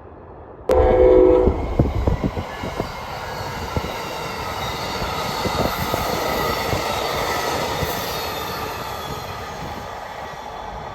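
Train passing close by. A short horn blast comes in abruptly about a second in, followed by a run of wheel clicks over rail joints and a steady rumble of the cars that swells and then slowly fades.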